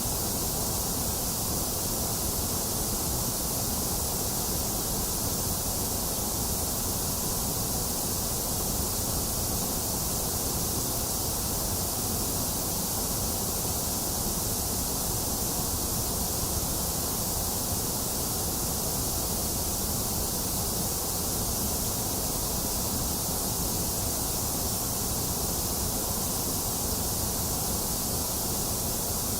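Box fan running steadily, mixed with steady rain: an even, unchanging noise with no thunder and no separate events.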